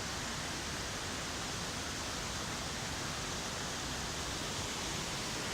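Rushing water of a fast-flowing river, a steady, even noise.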